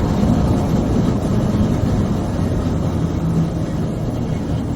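Horrible grinding from a 2014 Ford F-150 Raptor's front four-wheel-drive hubs while driving, heard from inside the cab, steady over the road noise and sounding like a metal trash can being dragged down the road. The four-wheel-drive vacuum system is losing suction, so the hub gears partly engage on their own and grind.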